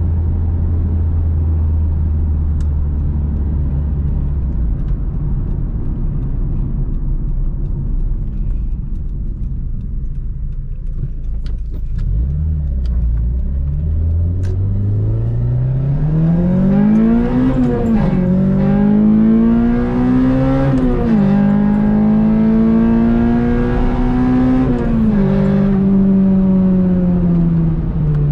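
Acura RSX's swapped-in 2006 Type S four-cylinder engine, heard from inside the cabin. It runs at a steady low pitch while cruising and eases off about twelve seconds in. Then it accelerates, its pitch climbing through three upshifts and dropping sharply at each shift.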